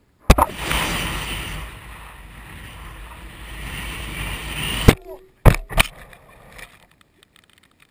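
Physics-class rocket launching: a sharp crack and then a loud, steady rush of noise for about four and a half seconds, cut off by a sharp knock, with two more knocks just after.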